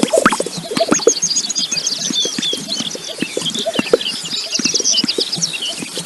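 Many small birds chirping in a dense, rapid chatter of short high calls, with lower short calls and scratchy taps underneath.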